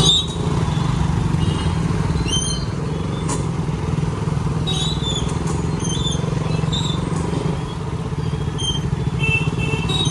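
Motorcycle engine running steadily at low speed in slow traffic, heard from on the bike.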